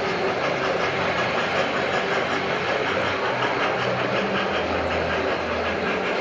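Model train running on layout track: a steady whir of wheels and a small motor, with a faint low hum that comes and goes.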